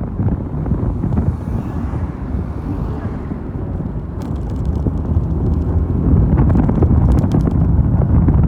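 Wind buffeting the microphone of a Mondial Fury motorcycle on the move, over the low rumble of its engine and the road. It gets louder about six seconds in.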